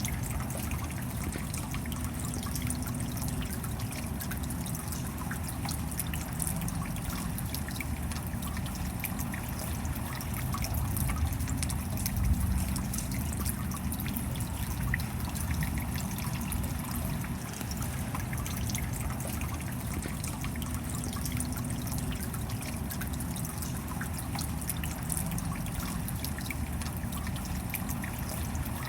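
Steady rain with water trickling and dripping: a constant wash of fine drop patter over a low rumble, swelling slightly about midway.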